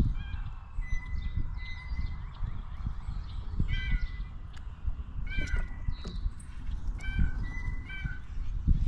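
Birds calling over and over in short, nasal, pitched calls, several in a row at a time, over a steady low rumble.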